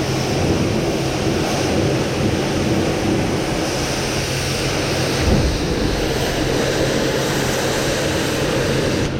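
Pressure washer running: a steady hiss of water spray over a low motor hum, cutting off near the end.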